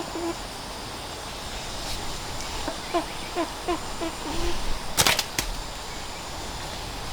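A chicken clucking in two short runs of quick calls, about three a second. Two sharp cracks come about five seconds in and are the loudest sounds.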